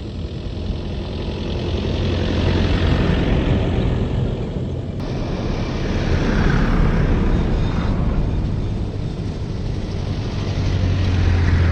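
An off-road vehicle driving: a steady rush of tyre and wind noise over a low engine hum. The sound shifts abruptly about five seconds in.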